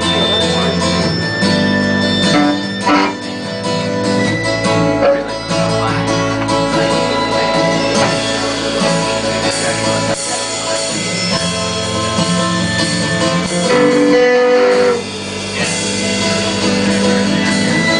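Live band playing a guitar-led instrumental intro, with no vocals yet.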